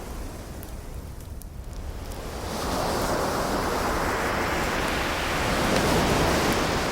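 An ocean wave breaking and washing up the shore: a rushing surge that builds about two and a half seconds in and peaks near the end. A few faint crackles of a wood fire can be heard under it.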